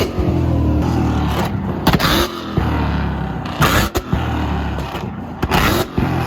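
Tuned Ford Mustang held on a two-step rev limiter: a steady, stuttering exhaust rumble broken about every two seconds by sharp exhaust backfire bangs as it shoots flames.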